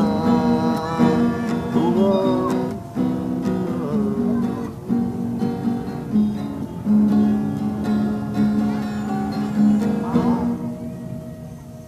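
Music: acoustic guitar strumming the closing chords of a song, with sustained notes, dying away about ten seconds in.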